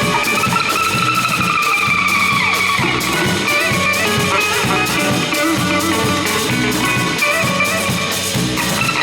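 Live band playing psychedelic cumbia: a steady cumbia beat under a lead line that holds long, slightly bending notes for the first few seconds, then plays shorter phrases.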